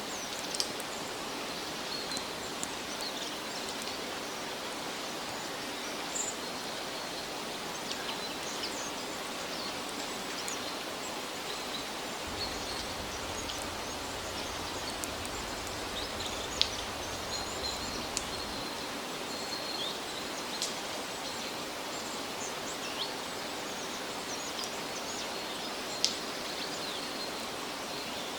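Steady outdoor hiss of forest ambience with small bird chirps scattered through it and a few sharp ticks, the loudest two about two-thirds and nine-tenths of the way through.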